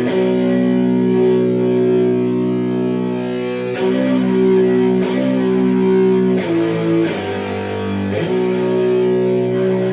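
Electric guitar played through a Sound JS HM-5 heavy-metal distortion pedal: distorted chords held and changed every second or so, a tone with an almost octave-like character.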